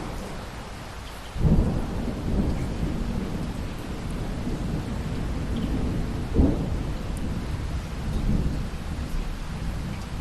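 Steady rain with a peal of thunder that breaks in suddenly about a second and a half in and rolls on as a low rumble. A second sharp crack comes past the middle, and the rumble eases off near the end.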